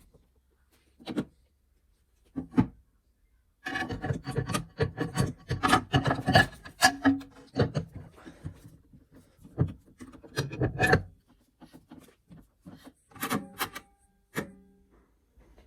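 Irregular rubbing and scraping on wood in uneven strokes, busiest in the middle, with a brief squeak near the end: handling and work on the gramophone's wooden cabinet.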